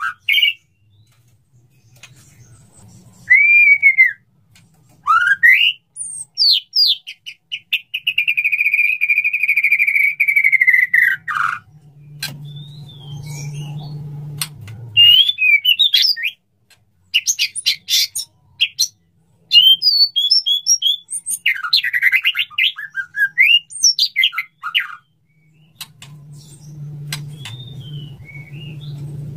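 Male white-rumped shama (murai batu) singing a varied song of loud whistled phrases and pitch glides, with sharp clicks between them and one long held whistle about a third of the way in that drops at its end. Sung as the male courts a female. A low hum comes in twice, around the middle and near the end.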